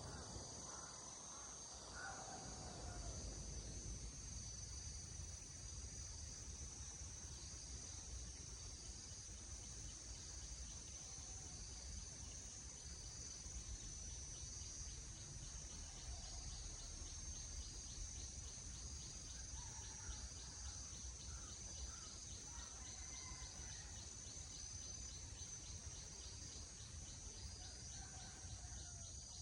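Insects calling steadily: a continuous high buzz overlaid by a pulsed chirp that repeats about once a second. A few faint bird calls come and go.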